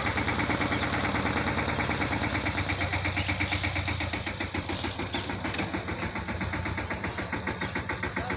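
Captain 200 DI tractor's diesel engine running with an even, rapid pulse. It drops a little in level about halfway through.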